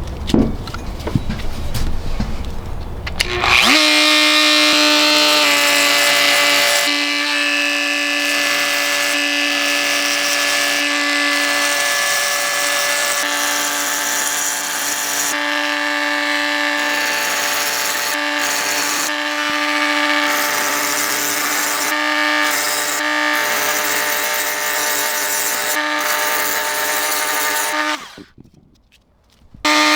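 Electric power tool motor running at a steady pitch, with a rough hiss over it that comes and goes. It starts about four seconds in, after some low rumbling, stops briefly near the end and starts again.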